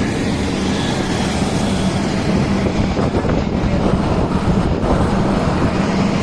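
Loaded 14-wheeler heavy truck on the move: a steady engine drone with road and tyre noise.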